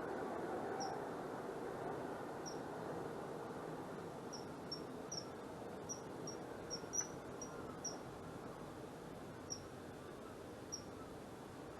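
A bird's short, high chirps, about a dozen at irregular spacing and most frequent around the middle, over a steady outdoor background noise.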